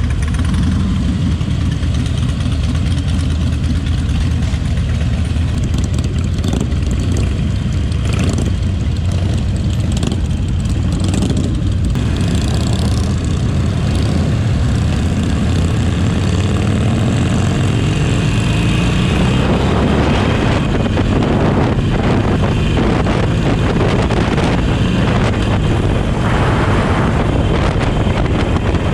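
Harley-Davidson V-twin motorcycle engine running on the road. Past the middle its note climbs as it speeds up.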